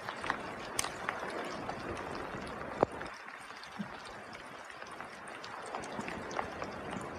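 Steady rain with a continuous hiss and scattered sharp drops tapping, one louder tap a little under three seconds in.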